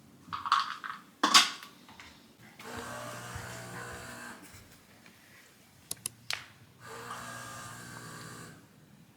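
A clatter of knocks, then a small electric motor runs twice with a steady buzzing hum, about two seconds each time, with a few sharp clicks between the runs.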